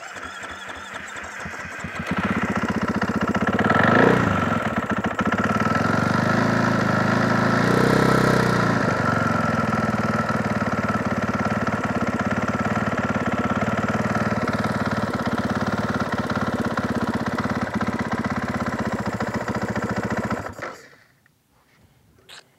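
Off-road motorcycle engine started and warmed up after a pressure wash, to dry out water around the seals. It comes in with a low pulsing, picks up about two seconds in and is revved about four and eight seconds in. It then runs steadily until it is shut off near the end.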